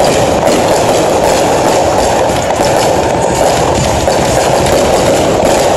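Fireworks going off without a break: loud, dense crackling and rapid popping from ground fountains and aerial bursts.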